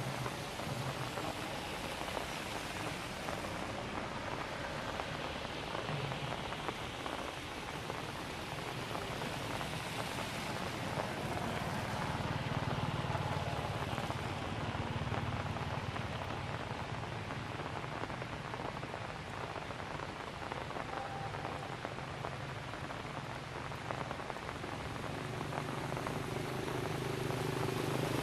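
Rain falling steadily: an even hiss of drops on surfaces, with a low hum growing louder near the end.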